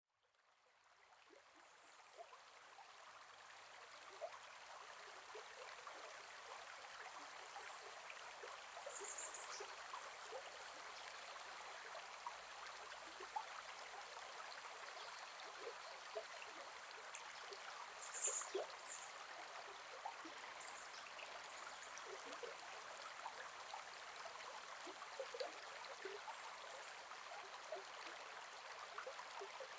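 Gentle forest river flowing steadily, an even wash of running water that fades in over the first few seconds. Two brief high chirps stand out, about nine and eighteen seconds in.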